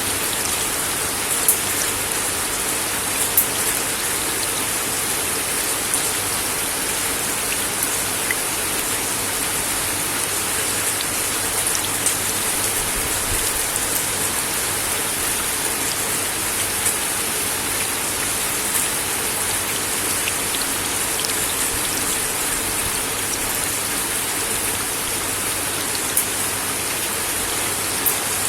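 Steady rain falling on a wooden deck, a constant hiss with scattered sharper drop hits, a few louder ones standing out.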